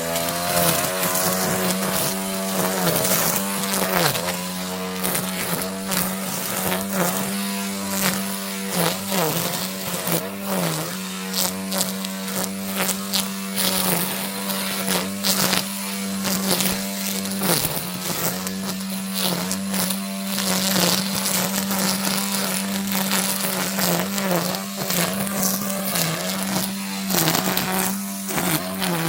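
Battery-powered brush cutter running steadily at full speed, its pitch dipping briefly now and then as the cutting head takes load in the vegetation, with scattered sharp ticks of debris striking.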